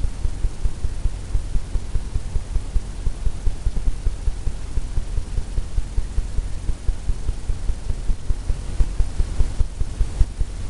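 A steady low rumble pulsing in quick, uneven thumps several times a second.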